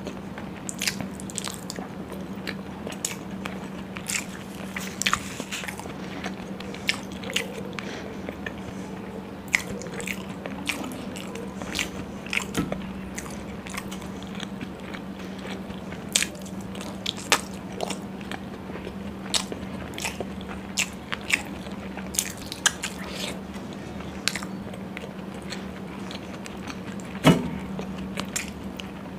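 Close-miked eating sounds of paneer in butter masala gravy eaten by hand: wet chewing with many sharp mouth clicks and smacks, over a steady low hum. A louder knock comes near the end.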